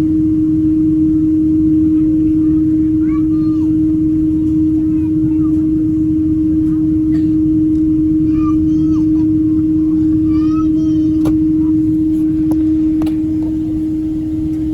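Steady cabin drone of a Boeing 777-200, a dense low rumble with one constant hum tone running through it. Faint voices come through in snatches, and there are a few light clicks near the end.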